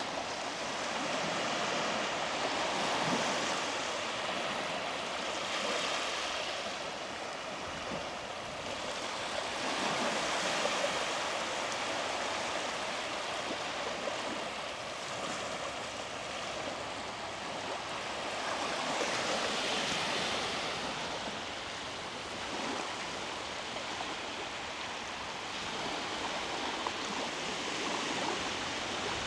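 Small sea waves washing up on a beach, an even rushing hiss that swells and eases every few seconds.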